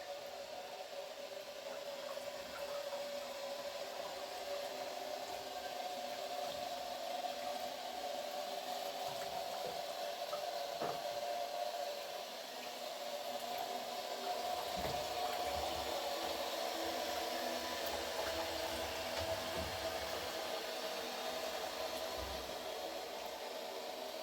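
Steady rushing of running water, with a few low knocks of handling near the middle and later on.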